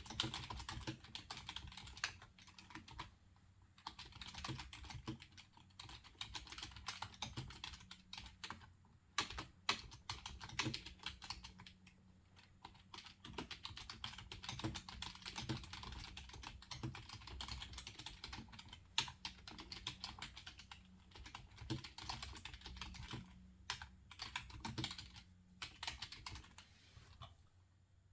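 Typing on a computer keyboard: quick runs of key clicks broken by short pauses, including one near the end.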